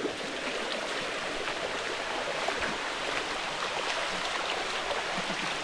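Steady rush of water cascading over the rocks of a waterfall.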